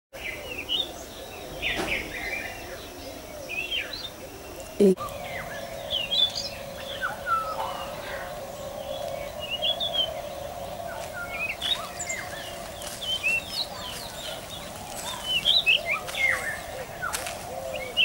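Several small birds chirping and calling in short, varied notes. A steady low hum runs underneath from about five seconds in.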